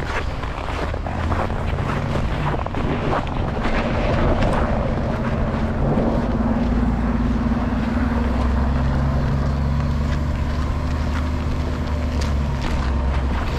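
Strong headwind buffeting the microphone of a bicycle ride through snow, with a low steady rumble and scattered clicks and knocks from the bike rolling over the snowy trail.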